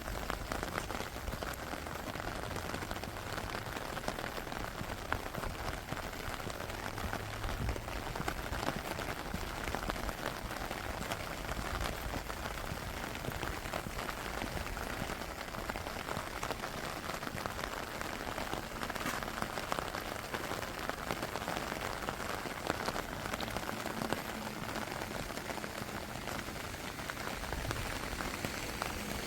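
Steady rain falling, with many fine drop ticks and patter close to the microphone.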